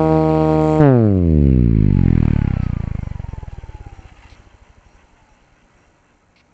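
RC scale JetRanger helicopter's motor and rotor running at a steady pitch, then spooling down about a second in. The pitch falls and a pulsing rotor beat slows as it fades away over a few seconds: the rotor winding down after the power is cut.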